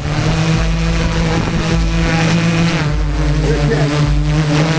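An engine running steadily at an even pitch, with a low pulsing rumble beneath it and crowd voices.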